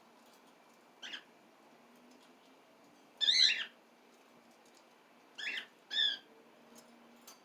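Pet cockatiel calling: a short call about a second in, a louder, longer call about three seconds in, then two short calls in quick succession. These are calls the owner hears as sad.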